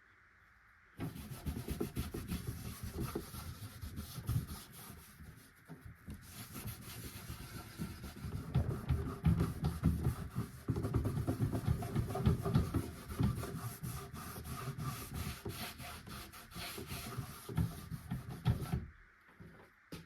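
Irregular scratchy rubbing by hand on a wooden surface. It starts about a second in and stops shortly before the end.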